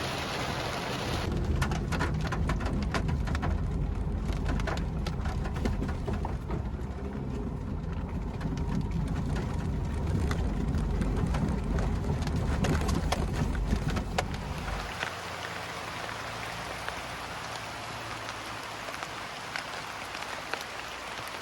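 Heavy rain falling steadily, with many separate drop hits striking a surface. A deep low rumble runs underneath for most of the time and drops away about three-quarters of the way through, leaving the rain alone.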